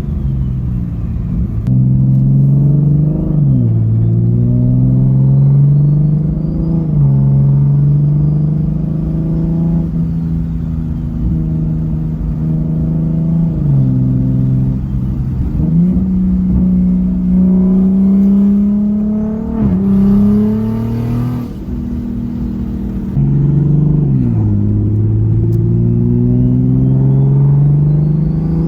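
Big-turbo Toyota MKV Supra's turbocharged inline-six (KLM 6466 turbo with T51R mod, catless downpipe into an AWE track cat-back exhaust) driving: the engine note climbs steadily over a few seconds, then drops sharply as if at an upshift, repeating about eight times, with a faint turbo whistle rising and falling along with it.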